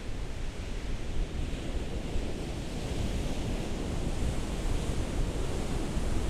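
Ocean surf: a continuous rush of waves washing in, swelling slightly partway through, over a low rumble of wind on the microphone.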